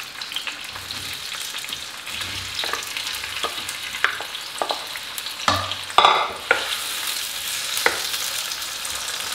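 Chopped tomatoes sizzling in hot ghee in a non-stick karahi as they are scraped in off a plate and stirred with a wooden spatula. A steady frying hiss runs under several sharp knocks of the plate and spatula on the pan, the loudest about six seconds in.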